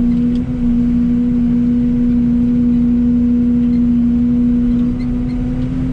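Excavator running steadily under work, a constant hum with a steady whine over a low rumble.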